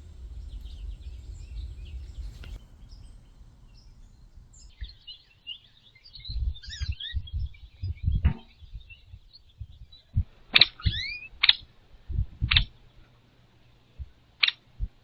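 Small birds chirping and twittering, with low wind rumble on the microphone at first. In the last few seconds come several loud, very short, sharp chips.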